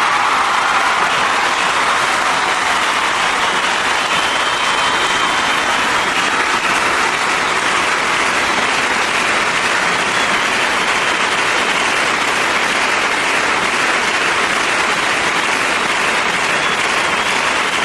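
Steady, even hiss of noise picked up by a dashcam's microphone while driving, with no distinct knocks, horns or crash sounds.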